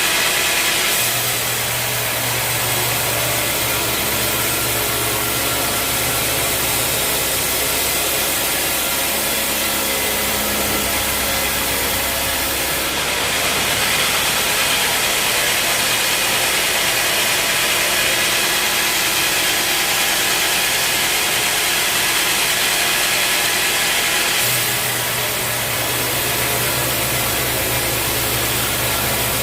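A bandsaw mill running steadily while sawing a teak log, an engine hum under the noise of the saw. The sound changes about 13 seconds in, when the hum drops back and a broader saw noise takes over, and changes again near 25 seconds.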